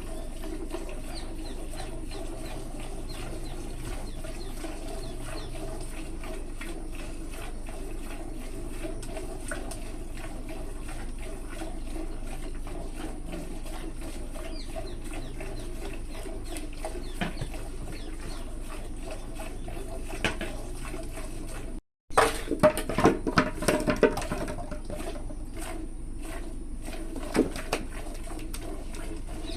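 Milk squirting into a pail as a buffalo is milked by hand, with many quick repeated strokes. A brief dropout about two-thirds through is followed by a few louder knocks.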